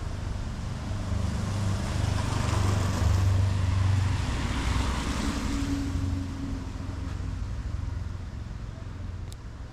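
A car passing on the street: engine rumble and tyre noise swell to a peak about three to five seconds in, then fade.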